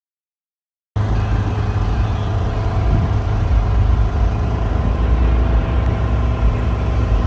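Silence for about a second, then a truck engine idling with a steady, deep exhaust rumble.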